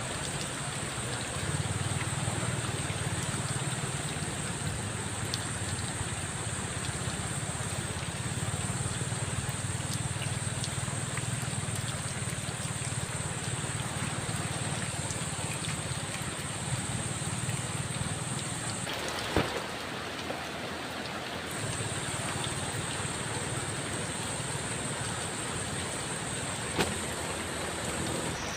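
Heavy rain falling steadily, with a low rumble under the hiss and two sharp taps, one about two-thirds through and one near the end.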